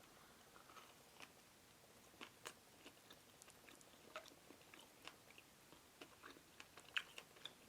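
Faint chewing of a soft donut, with scattered small mouth clicks.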